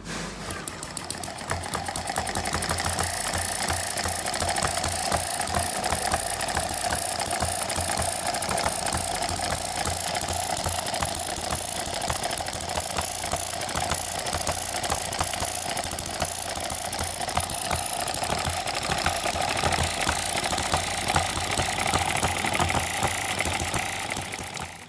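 Small model engine running fast and steady, a rapid even clatter of ticks, which cuts off abruptly at the end.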